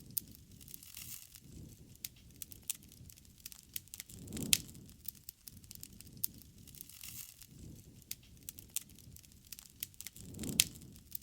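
Wood fire crackling, with irregular sharp snaps and two louder pops, about four and ten seconds in, over a soft low rush of the flames.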